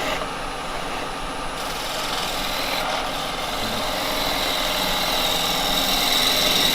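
Axminster 1628 wood lathe running at about 1200 RPM while a carbide chisel cuts a spinning cherry blank, a steady scraping hiss over the motor hum with a thin high whine, growing slowly louder.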